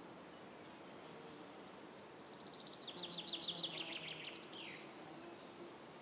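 A songbird singing. A few faint notes lead into a fast trill of short falling notes about halfway in, which ends in one longer downward sweep, over a steady hiss.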